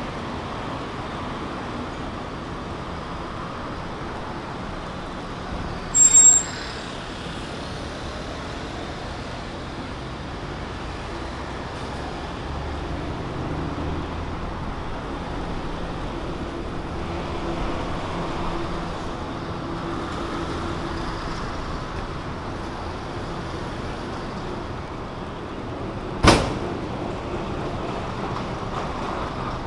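Steady city street traffic, with vehicles running and passing. About six seconds in there is a brief, loud, high-pitched squeal, and near the end a single sharp knock.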